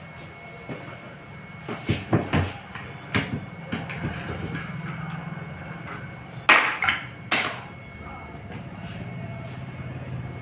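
A series of sharp knocks and taps, the two loudest about six and a half and seven and a half seconds in, over a steady low hum.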